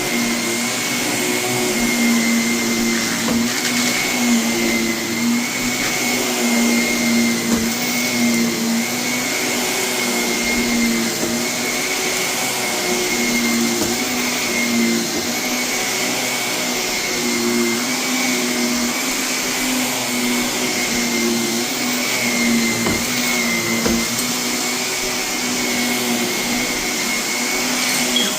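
Vacuum cleaner running steadily over heavily soiled carpet, its motor keeping an even pitch, with occasional faint crunches and ticks as renovation debris is sucked up.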